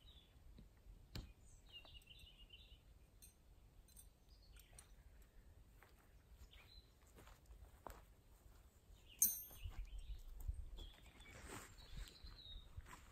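Faint chirps of small birds, a few short calls, over quiet outdoor ambience, with scattered light clicks and one sharper knock about nine seconds in.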